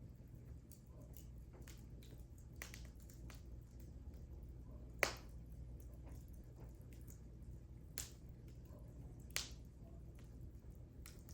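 Wood fire burning in a fireplace, crackling with scattered small snaps and three louder pops, the loudest about halfway through, over a low steady rumble of the flames.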